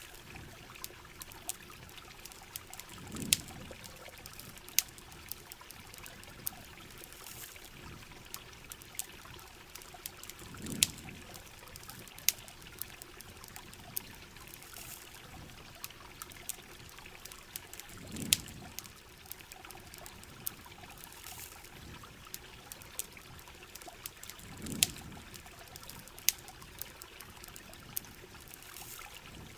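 Steady heavy rain and pouring water, with campfire crackles as scattered sharp pops. A soft low swell comes about every seven seconds, four times.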